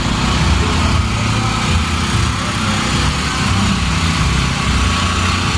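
A small engine running steadily, with an even low drone.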